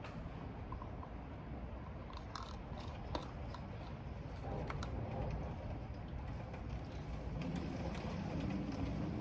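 Wind and rain blowing against the building in a steady low rumble that grows louder near the end, with a few scattered clicks of computer keyboard keys being typed.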